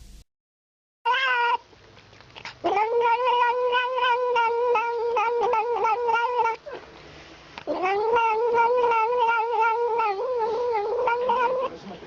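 A cat yowling: a short cry, then two long, drawn-out wavering yowls of several seconds each with a brief pause between them.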